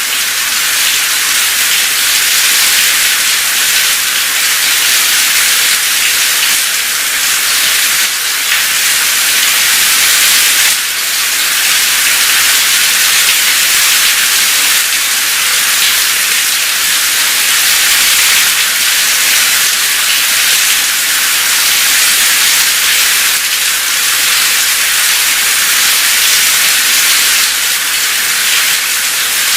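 Steady, heavy rain with a dense, even hiss.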